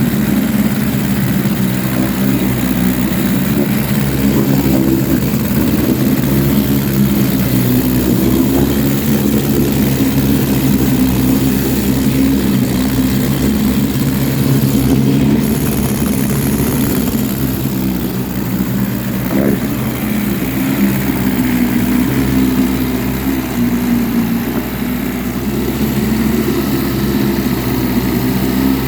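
1953 Scott-Atwater Gold Pennant 7-1/2 hp two-stroke outboard motor running steadily, dipping slightly in loudness a couple of times.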